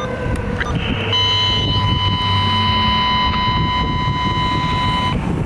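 Fire truck warning devices on a response run: a siren's pitch falling away in the first second or so, then a steady high horn tone held for about four seconds and cut off near the end, over the rumble of the truck.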